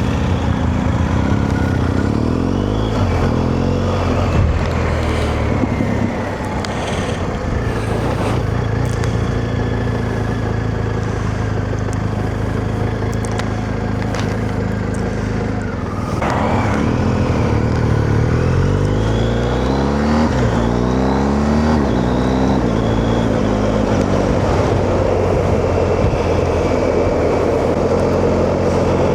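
Motorcycle engine and wind noise heard from inside a rider's helmet while riding. It runs lower for a stretch after about six seconds, then picks up again past the middle, the engine pitch climbing through several gears.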